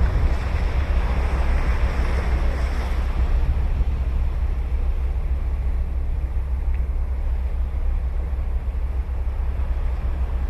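Ocean waves breaking and washing up a beach, a wash of surf swelling in the first few seconds and then settling to a steady hiss. Wind buffets the microphone throughout as a constant low rumble.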